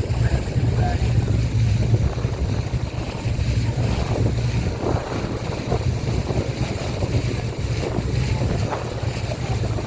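Motorboat underway: a steady low engine drone, with wind buffeting the microphone and water rushing and splashing along the hull.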